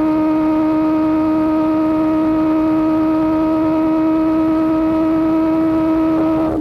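Superbike engine with an Austin Racing GP1R exhaust running at high, steady revs while cruising, a constant drone that holds one pitch.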